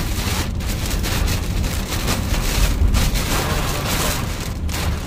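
Heavy rain pattering hard on a moving car's roof and windscreen, heard from inside the cabin over the low rumble of the car on the road.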